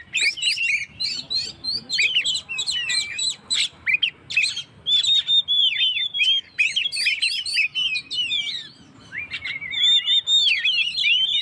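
Oriental magpie-robin (kacer) singing hard in a fast, varied stream of whistled sweeps, rising and falling notes and harsh chatters, with a brief lull a little past halfway.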